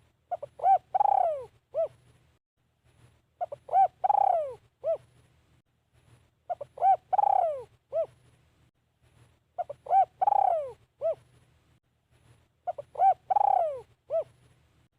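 Spotted dove cooing its song phrase five times, about every three seconds. Each phrase is a few short coos, then a loud, long falling coo, then one short final note.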